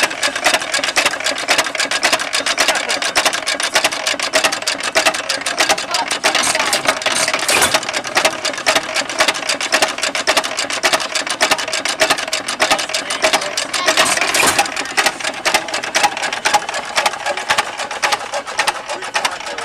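1911 Associated Manufacturers 'Hired Man' 2.5 horsepower single-cylinder hit-and-miss farm engine running with a fast, steady mechanical clatter, and a couple of louder beats about midway and three quarters of the way through. Its flyweight governor keeps it at the same speed.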